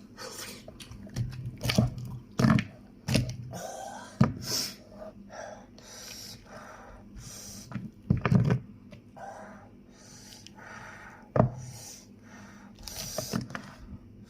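A person chewing and biting into fried meat and bone, with irregular crunches and wet mouth sounds and a few louder snaps.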